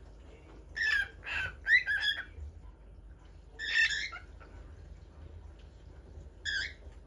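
A bird singing in three separate phrases: a run of several quick notes about a second in, a second phrase near the middle, and one short note near the end.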